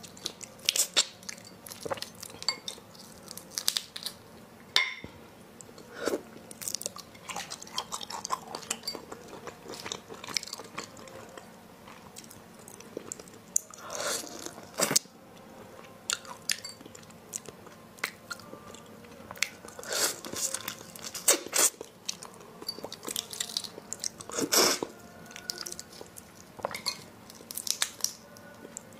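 Close-up eating of raw shrimp: chewing and biting heard as a string of irregular mouth clicks, with a few louder bites now and then.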